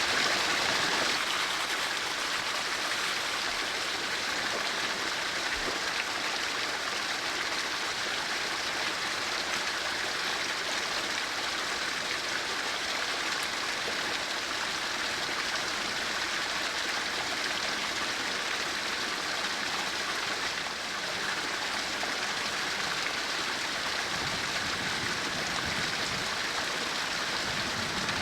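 A small creek running steadily, an even wash of flowing water.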